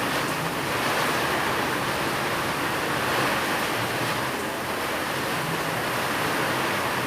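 Steady rain falling, an even dense hiss that holds at the same level throughout.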